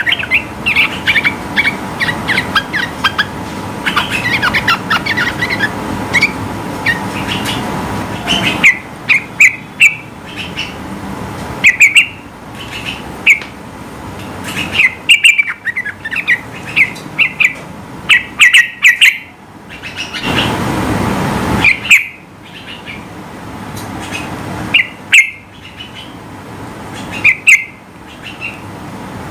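Yellow-vented bulbul singing energetically in short, bubbly whistled phrases repeated every second or two, after a dense run of chirping at the start. A rushing noise swells and fades for a couple of seconds about twenty seconds in.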